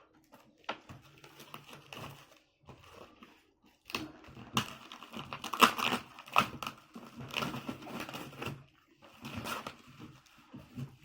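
Wrapping being crumpled and torn off a new motorcycle body panel as it is unboxed: irregular crinkling and tearing, sparse at first, then busiest and loudest from about four seconds in until past eight seconds, with another burst near the end.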